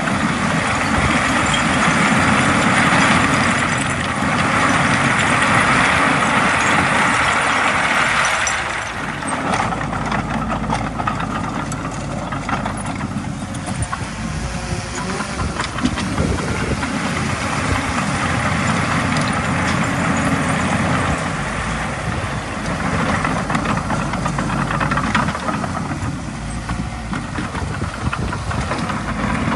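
Komatsu D20A bulldozer's diesel engine running as it pushes soil, its sound swelling and easing, louder for the first eight seconds or so and again in the later part.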